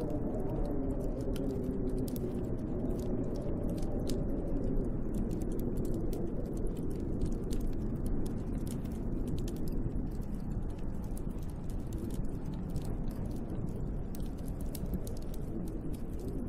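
Snowstorm wind blowing outside a window, with a wavering rise and fall of pitch as it gusts, and a dense scatter of small crackling clicks throughout.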